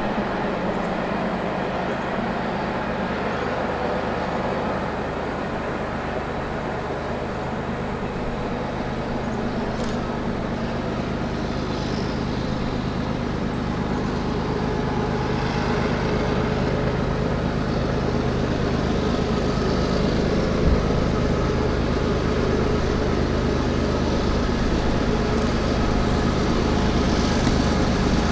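Freight train rolling past: a steady rumble of cars on the rails with a low engine drone underneath, slowly growing louder.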